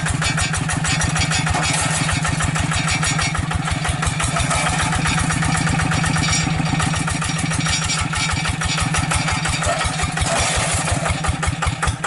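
Hand tractor's single-cylinder diesel engine running steadily with an even, rapid firing beat.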